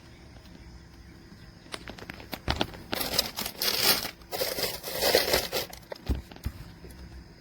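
Crinkling and rustling of something being handled by hand, in two bursts over about three seconds, with a few sharp knocks before and after.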